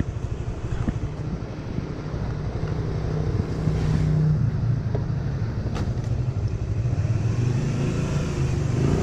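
Honda Winner 150 motorbike's single-cylinder engine running at low speed, a steady low hum that rises and falls a little in pitch.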